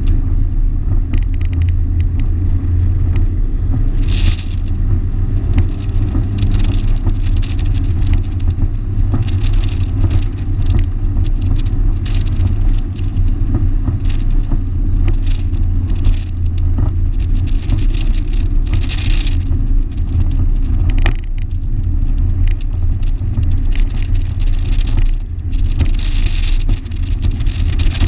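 1987 Shelby GLHS's turbocharged 2.2-litre four-cylinder running at speed on a race track. It makes a loud, steady low drone mixed with road and wind noise, with scattered rattles and knocks.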